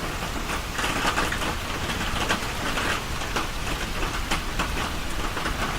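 Steady rain falling, an even hiss with many small drips and splashes throughout.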